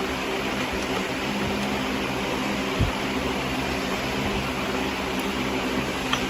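A steady machine hum with a constant whirring noise, like a fan or motor running at even speed, with a single soft low thump a little before halfway.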